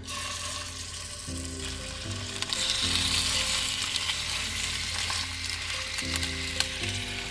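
Raw chicken thighs sizzling as they are laid into hot olive oil in a cast-iron Dutch oven. The sizzle starts suddenly and grows louder about two seconds in as more pieces go into the pan.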